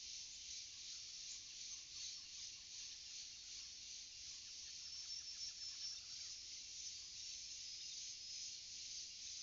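Steady, faint chorus of insects such as crickets, a continuous high-pitched shrilling. A brief rapid series of short notes or clicks comes in around the middle.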